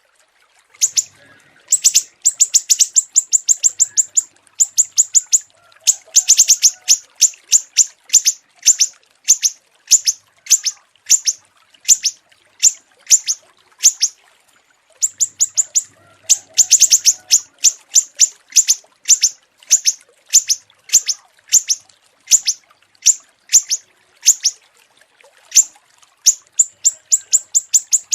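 Recorded small songbird calling in long runs of sharp, high chirps, now packed into fast trills, now spaced about two a second, with short pauses between runs.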